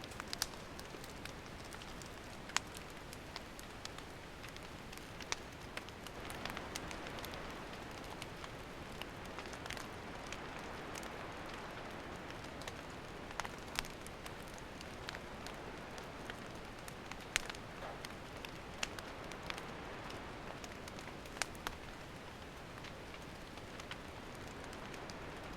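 Wood campfire burning: a steady soft hiss of flames with irregular sharp crackles and pops from the burning wood, a dozen or so spread through the stretch.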